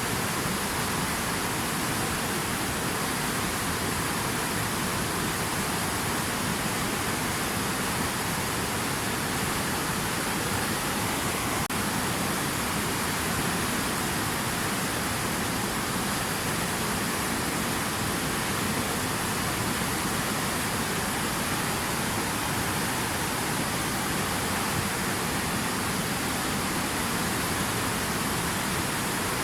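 Steady rushing water, an even hiss without breaks or changes.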